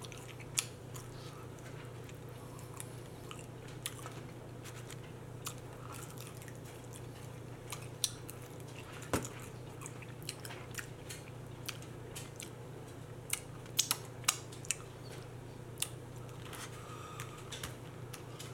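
A person chewing chicken wings close to the microphone: irregular wet mouth clicks and smacks, a few louder ones about eight seconds in and around fourteen seconds. A steady low hum runs underneath.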